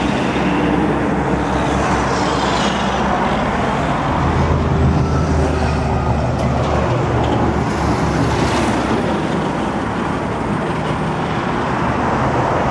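Steady motor-vehicle and road-traffic noise, with a low engine hum that grows louder from about four to seven seconds in.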